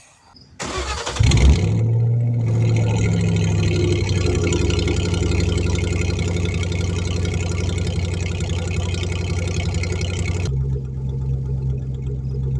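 Ford Mustang GT V8 cranking briefly, catching with a flare of revs, then running at a steady fast idle. The sound changes abruptly about ten seconds in. The engine has a logged cylinder 4 misfire.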